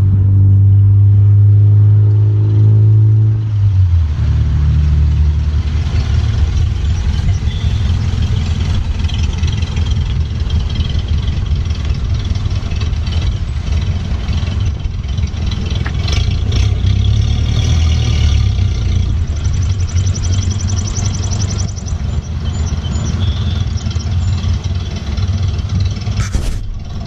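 Car engine running loudly: a steady low drone that drops in pitch about three and a half seconds in, then a rough low rumble.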